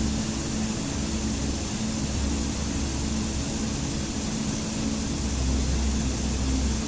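Steady rushing water, an even wash of noise with a low hum beneath it.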